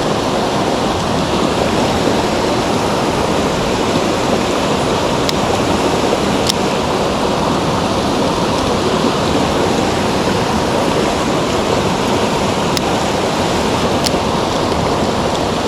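Mountain stream's rushing water, a loud and steady wash, with a few sharp ticks heard over it.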